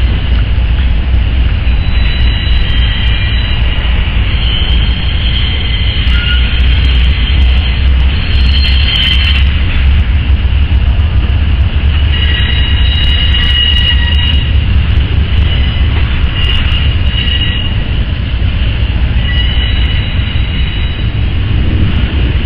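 Freight train rolling past with a loud, steady low rumble, while thin high-pitched wheel squeals rise and fade again and again as the wheels grind through the junction.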